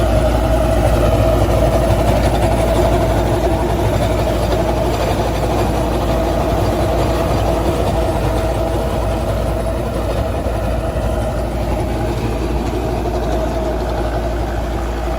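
Farmtrac Powermaxx tractor's diesel engine running steadily at a constant pace, driving a Pammi superseeder, with a deep, even rumble.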